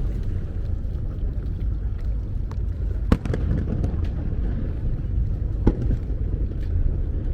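Fireworks shells bursting over the water with sharp bangs, two louder ones a little after three seconds and near six seconds and fainter pops between, over a steady low rumble of wind on the microphone.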